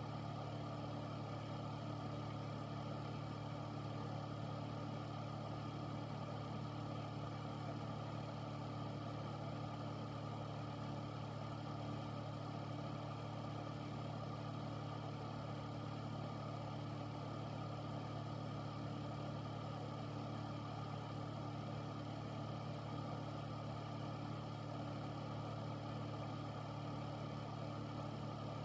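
Air filter running steadily: an even low motor hum with the rush of air from its fan, unchanging throughout.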